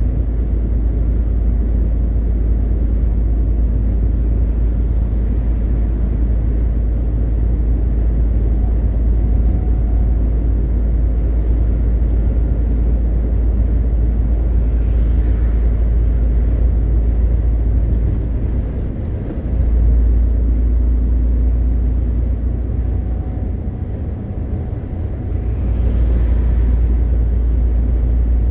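MAN TGX 520 truck's straight-six diesel and tyres on the road while driving: a steady, heavy low rumble. It eases off briefly twice, a little past the middle and again near the end.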